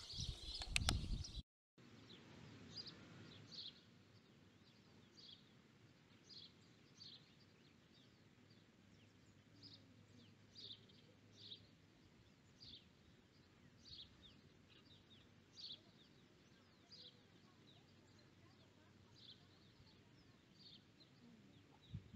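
A louder stretch with a few sharp clicks cuts off abruptly about a second and a half in. After it, faint short bird chirps repeat irregularly, about one a second, over a quiet background hiss.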